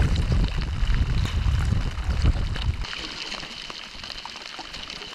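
Heavy rain falling on the lake around a canoe, with wind buffeting the microphone for roughly the first three seconds.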